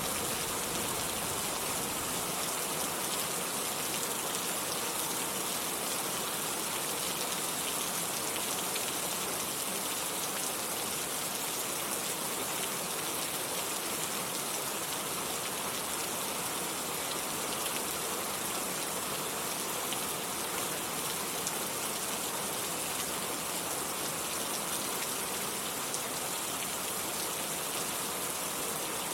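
Steady rain falling, an even hiss of drops on surfaces. The low rumble of a thunderclap dies away in the first couple of seconds.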